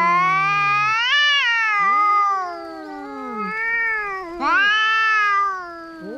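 Cats yowling at each other in a fight: long, wavering wails from more than one cat overlapping. One wail swells and rises about a second in; a quieter call comes around three and a half seconds in; another loud wail starts about four and a half seconds in.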